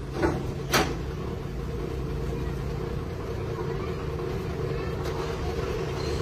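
Engine running steadily with a low, even hum. Two short sharp clicks come in the first second.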